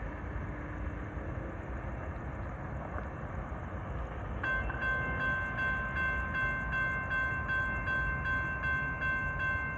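Railroad grade-crossing warning bells start ringing about four and a half seconds in, a steady high ringing that pulses about three times a second, over a low, even rumble.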